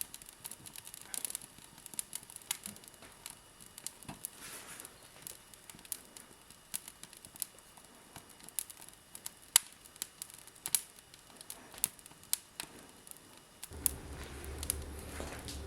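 Wood fire crackling, with irregular sharp pops and snaps. Near the end a steady low hum comes in underneath.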